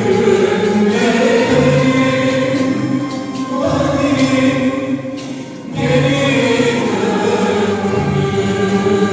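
Turkish classical (art) music in makam Kürdilihicazkâr: voices singing held, ornamented lines over instrumental accompaniment. It softens briefly about four seconds in, then swells again.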